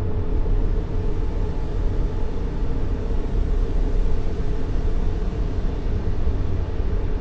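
Steady white noise for infant sleep, weighted toward the low end so it sounds like a deep, even rumble, with no pulses or breaks.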